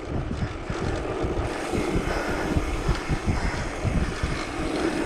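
Wind buffeting the microphone on a moving mountain bike, with a steady rumble of tyres on a rough, broken road.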